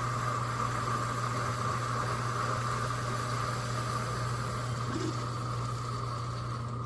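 Keurig K-Supreme Plus single-serve coffee brewer running mid-brew: a steady low hum of its pump with a constant hiss over it, the hiss dropping away near the end.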